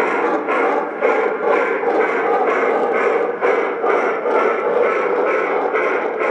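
Electronic steam chuffing from the speakers of MTH Proto-Sound O scale model locomotives running on the track, loud and even at about two chuffs a second.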